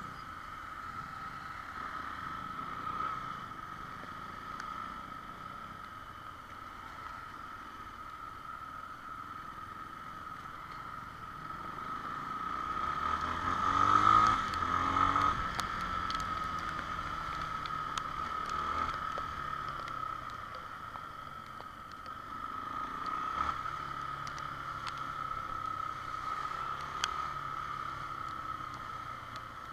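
Honda XR Tornado motorcycle on the move, with steady engine and road noise. About halfway through, the sound swells to its loudest and fades again over a few seconds, like another vehicle passing.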